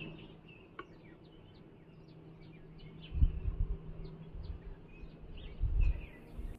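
Small birds chirping over and over in the open air, with a steady low hum beneath. Two short low rumbles come about three seconds in and near the end.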